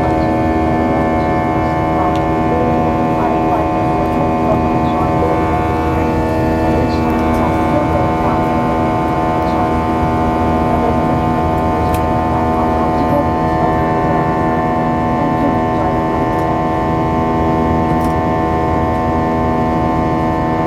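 Steady, many-toned droning hum inside an Airbus A320 passenger cabin, holding level throughout.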